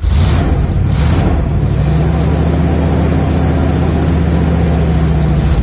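1979 Corvette's 350 small-block V8 running loudly at a steady idle, cutting in abruptly at the start. It has a couple of brief swells in the first second. The engine is running again after more than ten years of sitting.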